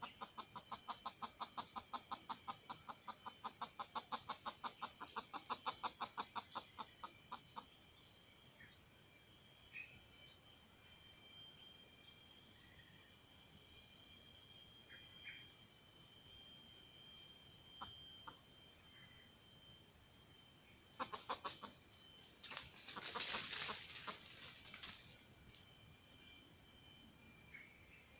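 A chicken clucking in a fast, even run of about four clucks a second for the first seven or so seconds, then only a few scattered calls, over a steady high-pitched insect drone. Near the end comes a louder, noisy burst of rustling.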